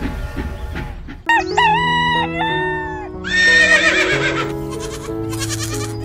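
A rooster crowing twice over background music. The first crow comes about a second in, after a steady noise cuts off, and the second comes about two seconds later.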